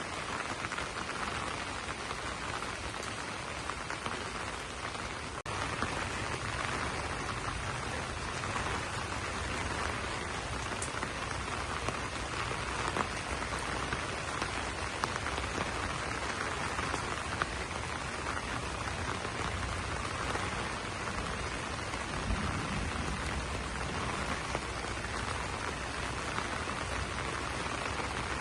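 Steady rain falling on broad banana leaves, with many small individual drop ticks over a continuous hiss. There is a brief dropout about five seconds in, after which the rain is a little louder.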